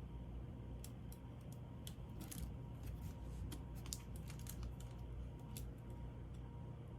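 Scattered light clicks and taps of small laptop parts and screws being handled and set in place, irregular and a few each second, over a steady low hum.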